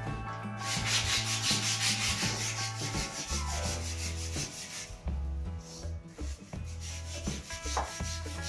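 Sandpaper rubbing on a new snooker cue shaft, a steady rasping hiss that eases off about five seconds in and comes back briefly near the end, over background music.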